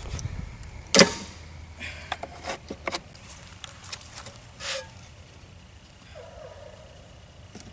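Lid of a shipping package of bees being pried off: a sharp crack about a second in, then several small clicks and knocks and a brief scrape.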